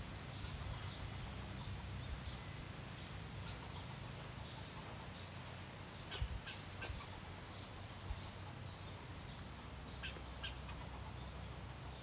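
Small birds chirping: short high chirps repeated throughout, with a few louder, sharper chirps about halfway through and again near the end, over a steady low background hum.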